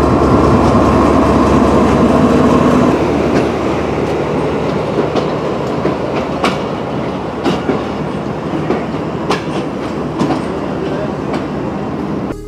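A Pakistan Railways GEU-40 diesel-electric locomotive running as it passes, its engine hum fading after about three seconds into the rolling noise of passenger coaches going by, their wheels clicking over rail joints about once a second.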